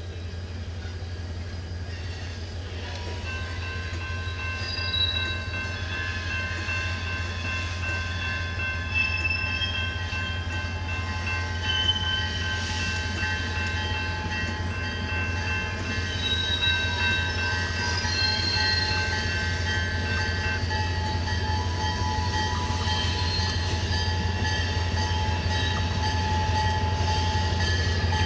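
Diesel freight train led by an EMD SD40-2 locomotive approaching, a steady low engine rumble growing gradually louder. Thin, drawn-out high squealing tones from the wheels on the curve sit over it from a few seconds in.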